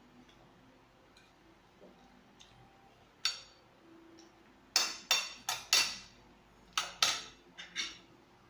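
Cutlery clinking against dishware: one clink a little after three seconds in, then a quick run of about nine sharp clinks over the next few seconds.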